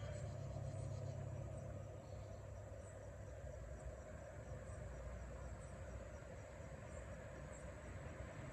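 Quiet steady low hum with faint insects chirping in the background.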